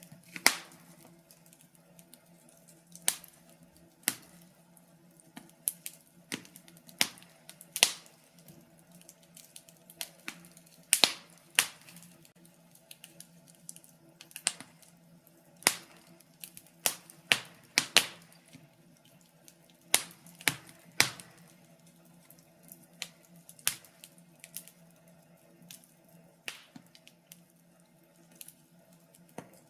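Fire in a fireplace crackling: irregular sharp pops and snaps, some in quick clusters, over a faint steady low hum.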